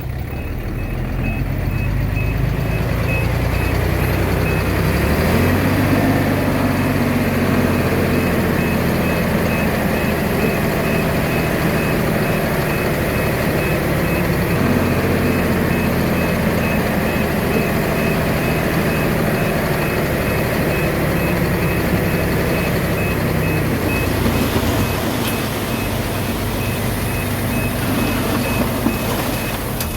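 Heavy diesel engine running under load, its pitch stepping up about five seconds in. A reversing alarm beeps steadily, about two beeps a second, and stops near the end.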